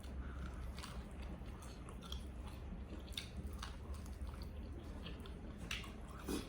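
Close-up chewing and gnawing of fried chicken meat off the bone, with small irregular crunches and clicks.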